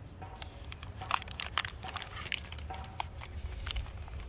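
MRE packaging crinkling and crackling in irregular clicks as it is handled: the plastic flameless ration heater bag with the meal pouch inside being set down at a slight angle.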